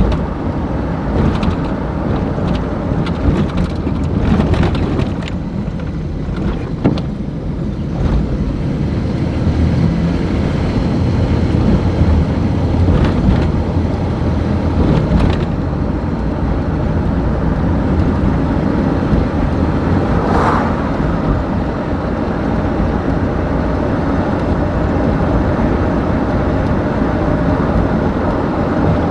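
Steady low rumble of a car on the move, with a few short knocks and clicks in the first eight seconds and a couple more later.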